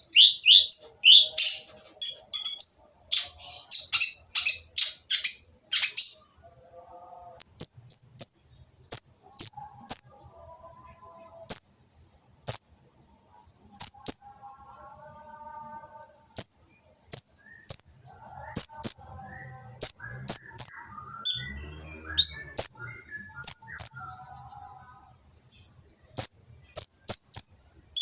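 Kolibri ninja (konin) sunbird calling in sharp, high-pitched, harsh chirps: a fast run of them at first, then single chirps and short clusters about once a second. This is a rough-voiced lure call meant to provoke other konin into singing.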